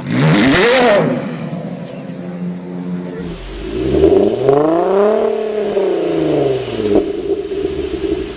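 Performance car engine revved from idle with its exhaust: a sharp, loud blip right at the start that drops straight back, then a slower rev that climbs for about two seconds and falls back to a steady idle.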